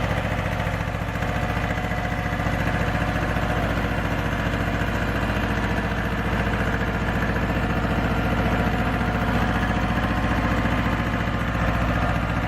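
Mini tractor's engine running steadily, with an even, fast pulsing.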